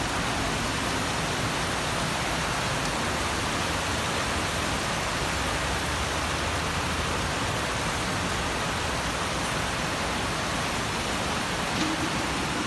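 Heavy rain pouring steadily, a dense, even hiss that holds at the same level throughout.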